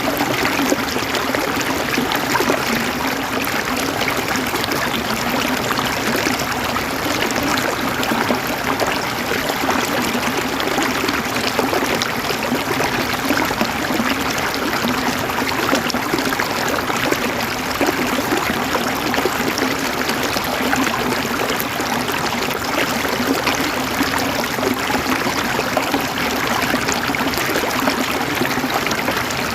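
Flowing water running steadily, an even rush and trickle like a stream over stones.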